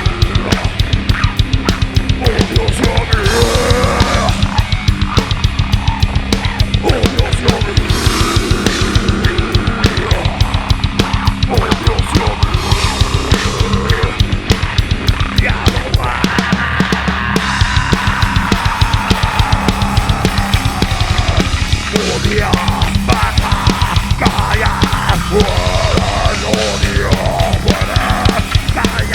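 Live extreme metal band playing an instrumental passage: fast, continuous double bass drum and drums under heavy distorted guitars, with a held guitar line that slowly falls in pitch midway.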